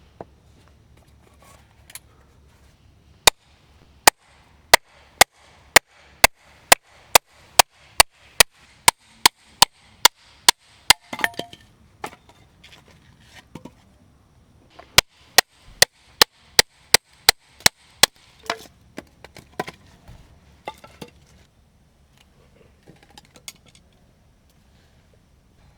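Wood being chopped with an axe: a run of sharp, evenly spaced strikes, about two a second, then a pause and a shorter run of the same, followed by a few scattered lighter knocks.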